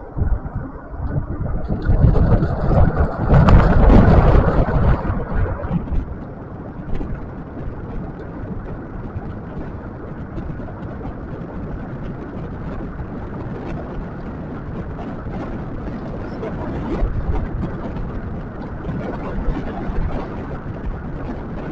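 Wind rushing over the microphone and road noise while riding a scooter along a paved road, with a louder rumbling rush from about two to six seconds in.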